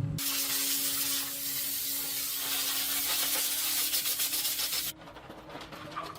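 A steady, harsh hissing rub for about five seconds that stops abruptly, with a faint steady hum underneath.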